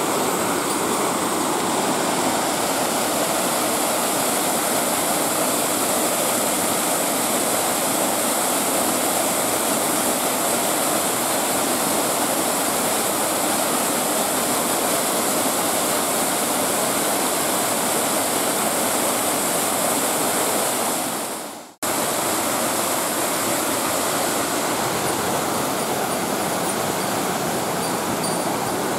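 Waterfall: water pouring and splashing in a steady, dense rush. It drops out for a moment about three-quarters of the way through, then resumes unchanged.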